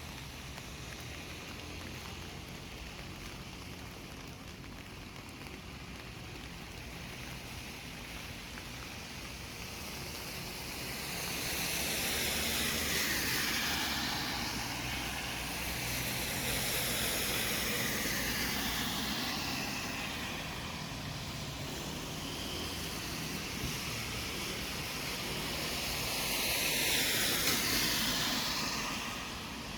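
City street traffic: a steady low hum of distant traffic, then vehicles passing one after another from about ten seconds in. Each pass swells and fades with a falling pitch, and the loudest comes near the end.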